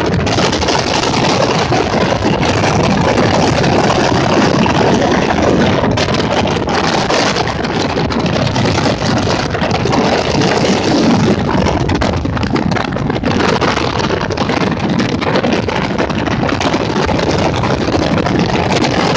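Motorboat engine running steadily under way, a loud, even rush of engine and water noise.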